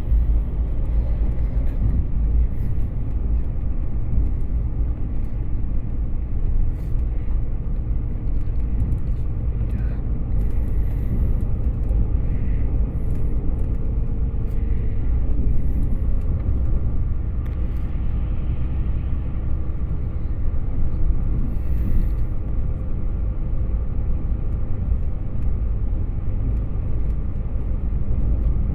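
Steady low rumble of a passenger train running along the line, heard from inside the carriage, with a few faint clicks and rattles.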